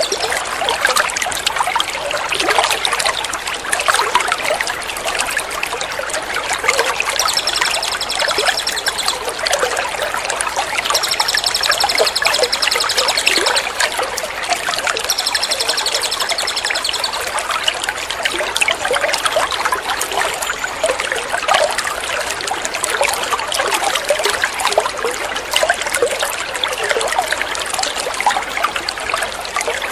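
Water trickling and splashing steadily, a water-therapy recording for training songbirds. A small songbird's rapid, high, evenly repeated trill sounds over it three times, about 7, 11 and 15 seconds in.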